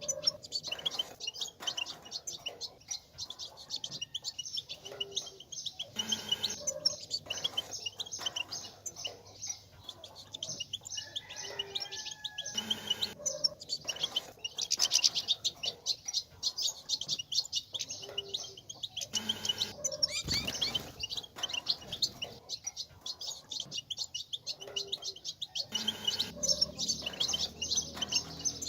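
European goldfinch twittering: a dense, unbroken stream of fast, high chirps and trills. It is the kind of goldfinch chatter played to male goldfinches to stimulate them to sing.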